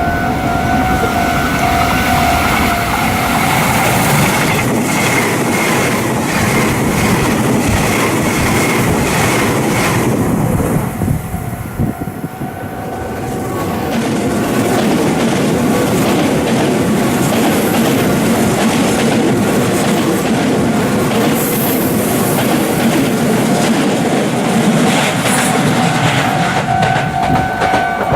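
Meitetsu 2000 series μSKY electric train passing at speed, its wheels clacking over rail joints. The sound dips briefly about eleven seconds in and then builds again. A steady pitched tone sounds at the start and again near the end.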